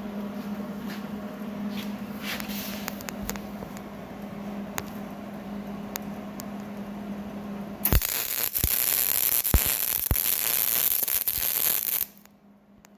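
Electric welding arc crackling for about four seconds, starting about eight seconds in and cutting off suddenly, as a hinge is welded onto a tractor cross member. A steady hum with scattered clicks comes before it.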